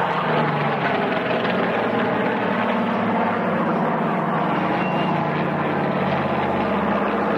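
Propeller aircraft engine droning steadily, its pitch shifting slowly.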